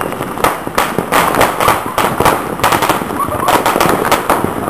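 Many fireworks and firecrackers going off at once, a dense, irregular string of sharp bangs and pops over a constant crackle, heaviest in the middle.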